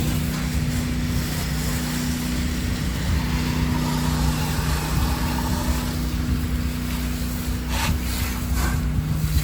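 An 8 GPM pressure washer's engine running steadily, with the hiss of water spraying from the wand and a few short spurts of hiss near the end.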